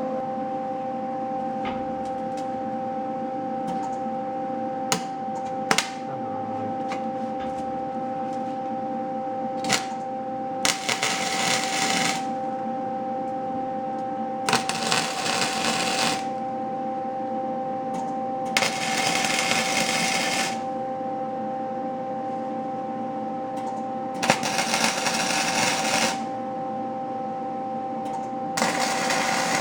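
Wire-feed (MIG) welder laying short stitch welds on an exhaust pipe: five bursts of arc crackle, each about two seconds long, over a steady hum. A few sharp clanks come in the first ten seconds.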